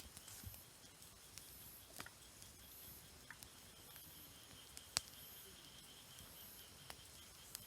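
Wood campfire crackling faintly, with a handful of scattered sharp pops, the loudest about five seconds in. Insects chirp steadily in the background.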